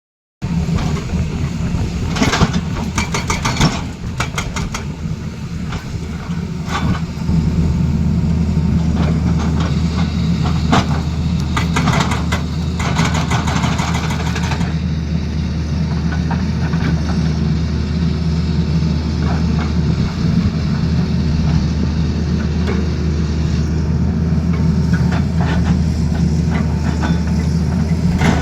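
Excavator's diesel engine running steadily, with runs of rapid knocking a few seconds in and again around the middle.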